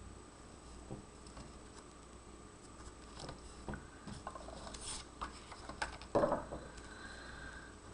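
Paper and cardstock being handled and pressed together by hand: light scattered taps, clicks and rustles, with a louder brief rustle about six seconds in.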